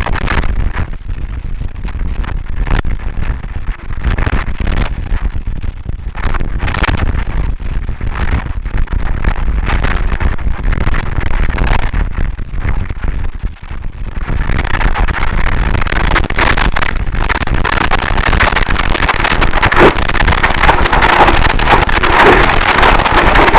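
Harsh noise music: a loud, dense wall of distorted noise full of crackles and pops, heavy in the bass at first, then turning brighter and denser about halfway through.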